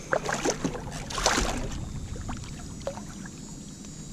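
Water splashing and knocking around a fishing kayak: several short sharp splashes and knocks, with a louder splash about a second in, then quieter water noise.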